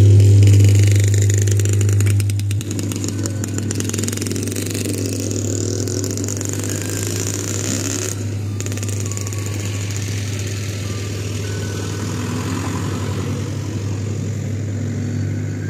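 A loud, steady low bass tone from a large event sound system. It drops in level about two and a half seconds in and cuts off at the end.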